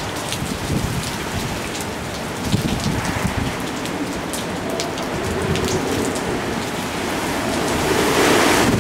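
Typhoon wind and wind-driven rain, a steady rushing hiss with scattered sharp raindrop ticks; a stronger gust builds toward the end.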